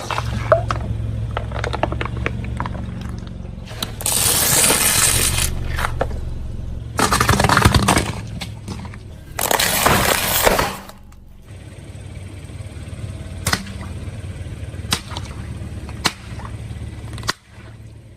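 A car tyre rolling over and crushing brittle objects: a run of cracks and snaps with three loud crunching bursts a few seconds apart, over the car's engine running. After that the engine sound drops away and single sharp cracks come now and then.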